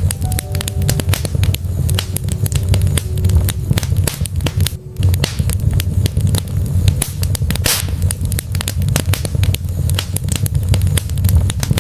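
Wood fire burning in a fireplace, crackling with many small pops over a steady low rumble, with one sharper pop about eight seconds in.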